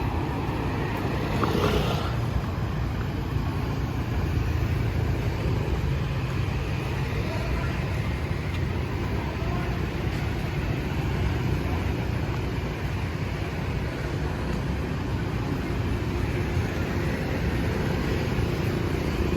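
Steady city street ambience: a constant low rumble of traffic, with a brief louder sound about two seconds in.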